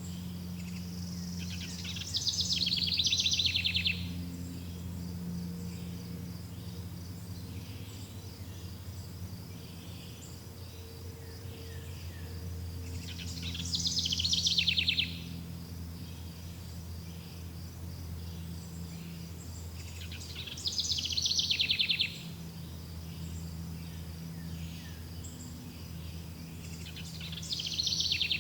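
A songbird repeating a short, rapid trilled phrase four times, roughly every seven seconds, over a steady chirring of insects and a low steady hum.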